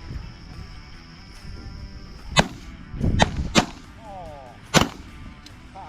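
Four shotgun shots, beginning a little over two seconds in, the second and third close together.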